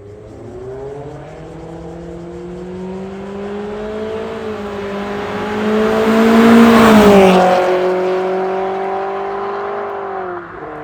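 Toyota Corolla Altis E170's 1.8-litre 2ZR-FE four-cylinder engine sounding through an MS-R valved cat-back exhaust, pulling under throttle. The note climbs slowly and is loudest about two-thirds in, where the pitch drops, then eases off.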